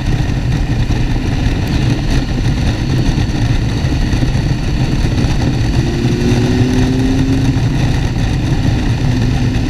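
Motorcycle engine running steadily while riding at a constant pace, heard from on the bike.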